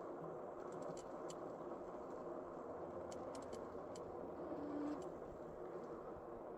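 Steady road and traffic noise while riding an e-bike along a city street, with a faint constant hum under it and a few light clicks.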